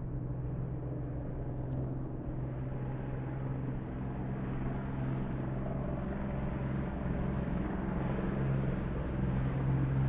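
Racing outboard motor running at a steady pitch, gradually growing louder.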